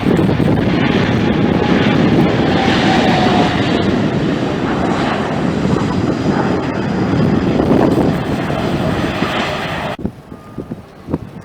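Jet airliner passing close by, its engines giving a loud, steady rumble with a faint whine that slowly falls in pitch; the sound cuts off abruptly about ten seconds in.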